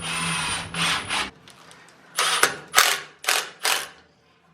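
Hand-tool noise: a longer rasping, rattling sound in the first second, then four short, sharp mechanical strokes about half a second apart.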